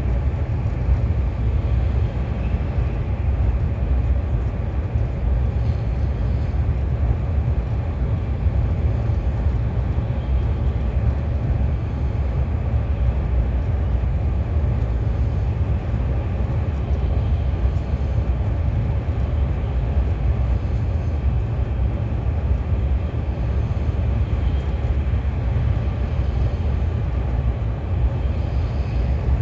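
KTX high-speed train running at speed, heard from inside the passenger car: a steady, even low rumble of running and track noise.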